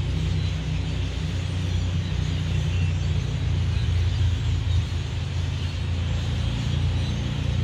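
A huge flock of birds chattering in a dense, continuous chorus, over a loud steady low rumble.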